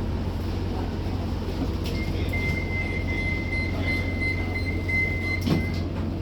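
Van Hool AG280 bus's diesel engine running with a steady low hum. A steady high tone sounds for about four seconds from about two seconds in, and a short knock comes near the end.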